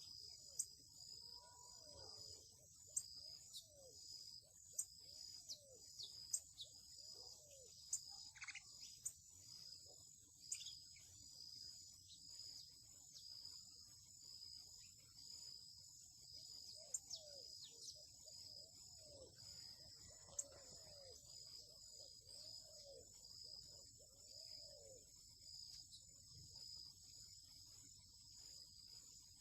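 Faint, steady high-pitched chorus of crickets. Scattered sharp clicks and two runs of short, low calls sound over it, the first near the start and the second about two-thirds of the way through.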